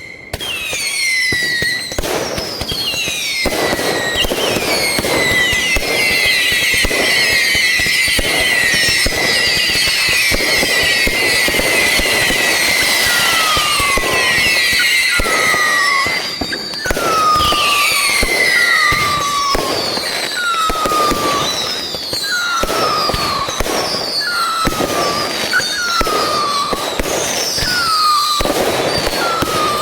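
Fireworks going off nonstop: a dense run of bangs and crackling, with many overlapping whistles, each sliding down in pitch. In the second half comes a string of shorter, lower whistles about once a second.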